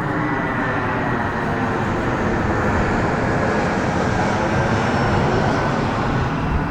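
Airbus A321 jet airliner on its landing: a loud, steady jet engine noise, swelling slightly in the middle, with a faint high whine that falls slowly in pitch.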